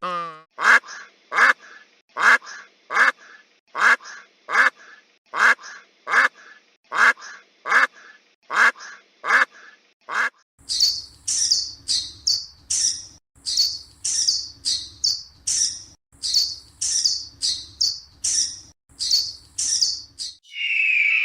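Repeated bird calls in two series. First come short calls at a steady pace, a little more than one a second; about ten seconds in they change to a higher-pitched, quicker series of calls over a low hum.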